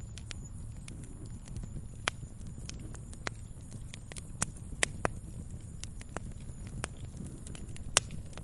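Wood fire burning in a fireplace: a steady low rumble of flames with irregular crackles and pops, the sharpest a few seconds apart, one loud pop near the end.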